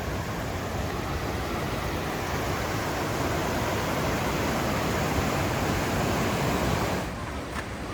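Steady rushing noise that drops off abruptly near the end.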